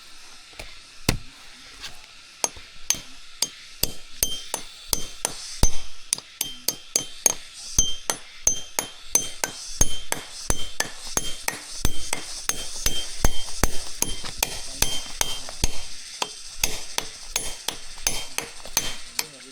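Repeated sharp knocks with a brief metallic ring, like a tool striking something hard: spaced out at first, then quickening to about three strikes a second from about four seconds in.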